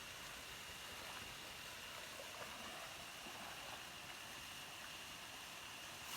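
Faint, steady rush of waterfall and stream water, with a thin high tone held steady above it.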